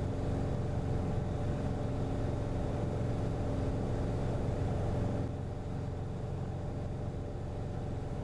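Cessna 177RG Cardinal's four-cylinder Lycoming engine and propeller droning steadily, heard inside the cockpit during the climb. The drone drops a little quieter about five seconds in.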